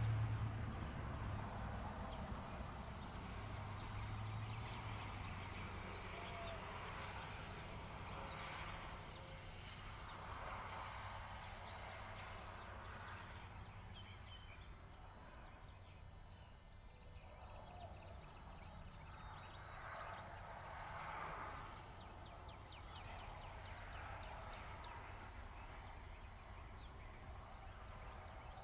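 Birds calling outdoors: a few rising whistled calls and a held high note, over patches of rustling, wind-like noise.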